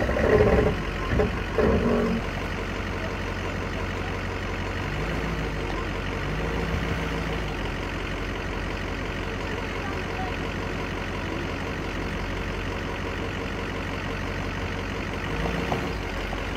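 Ford F-350 dually pickup's engine idling steadily, with a few short louder sounds in the first two seconds and a slight rise in engine note for a few seconds in the middle.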